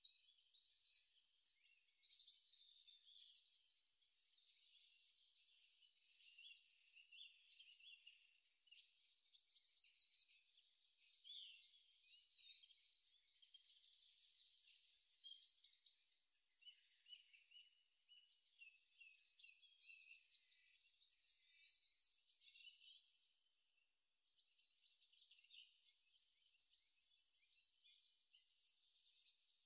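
Small birds chirping continuously, with a fast, high trill that comes back four times.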